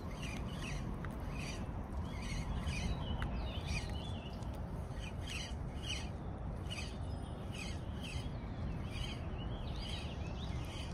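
Wild birds calling repeatedly with short chirps and warbles over a steady low rumble.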